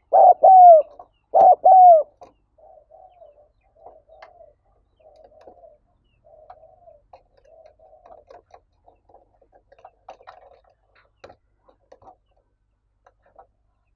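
Spotted dove cooing: two loud pairs of arched coo notes in the first two seconds. After that, faint soft cooing and small clicks.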